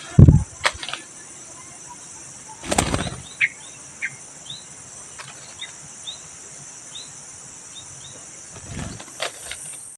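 Insects droning steadily at a high pitch, with a bird giving a string of short chirps about twice a second through the middle. A few dull thumps or rustles come at the start, about three seconds in and near the end.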